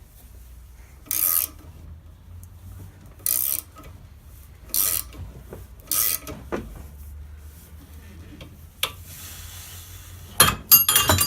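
Metal tool and bearing parts of a Nissan Laurel C32 rear differential being worked in four short scraping strokes, then a quick run of sharp metallic clinks and clatter near the end as the tight bearing is worked loose.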